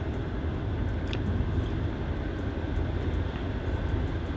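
Steady low rumble of a moving sleeper train heard from inside the carriage, with a few faint clicks over it.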